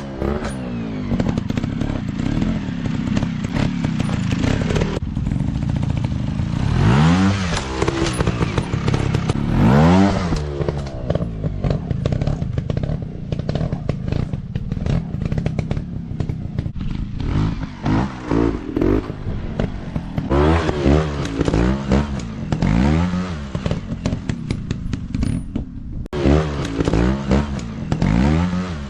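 Dirt bike engine revving in repeated bursts, its pitch climbing and dropping again every few seconds, with clattering and knocks throughout.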